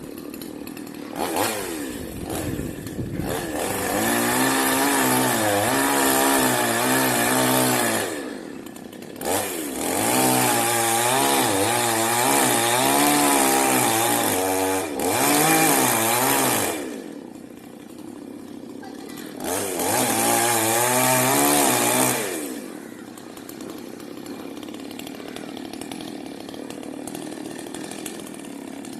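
Two-stroke chainsaw cutting into a coconut tree: the engine revs high under load in three long bouts, its pitch wavering as it bites, and drops back to a lower idle between cuts and for the last several seconds.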